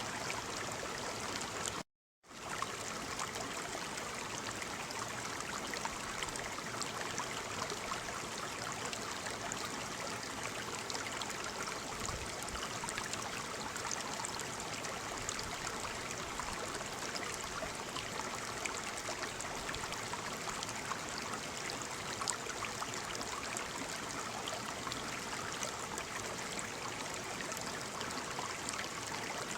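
Waterfall: a steady rush of falling water with fine splashing and trickling. It cuts out to silence for a split second about two seconds in, then resumes unchanged.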